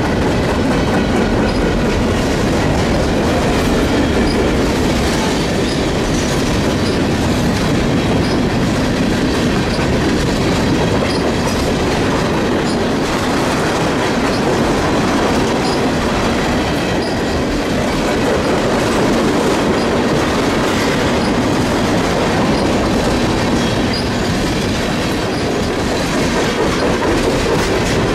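Train rolling past close by: a steady, loud rumble and clatter of steel wheels on the rails.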